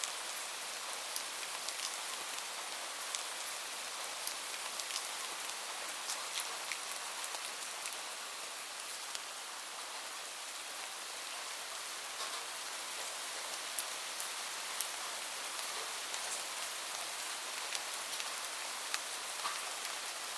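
Steady rain with individual drops ticking sharply throughout.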